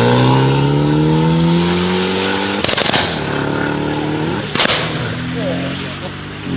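High-performance car engine pulling with slowly rising revs, then two sharp exhaust bangs about a second and a half apart, the engine running on between and after them.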